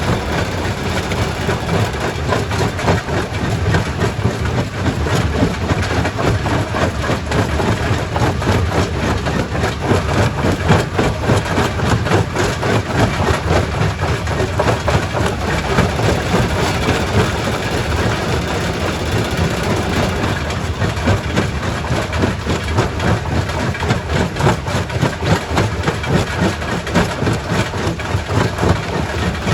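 Quarry primary rock crusher running under load, with heavy machinery droning and a steady irregular clatter and cracking of rock being broken.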